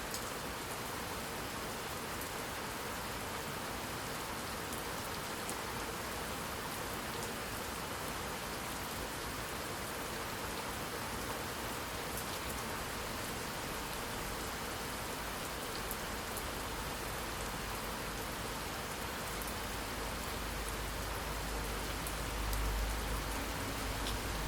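Steady heavy rain falling, a dense even hiss with fine drop ticks. Near the end a deep low rumble of distant thunder builds up.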